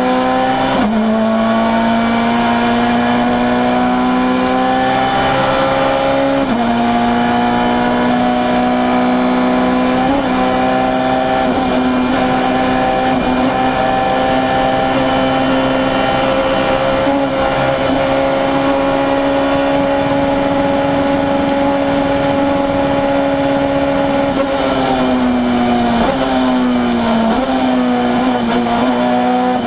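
Citroën C2 R2 Max rally car's 1.6-litre four-cylinder engine, heard from inside the cabin, running at high revs under full throttle. The pitch dips briefly at about one, six and ten seconds and then holds high and steady through the middle. Around twenty-five seconds in it falls off, then rises and falls again near the end.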